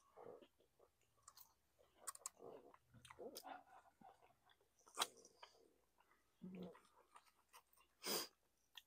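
Faint chewing and mouth sounds of people eating fried chicken and French fries, with scattered soft clicks and crunches. The loudest come about five seconds in and again about eight seconds in.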